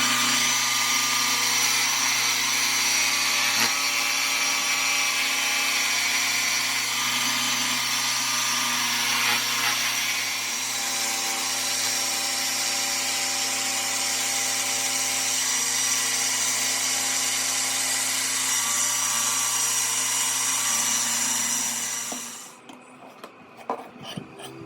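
Electric power tool running steadily, a motor hum with a bright hiss over it, switched off about 22 seconds in and winding down.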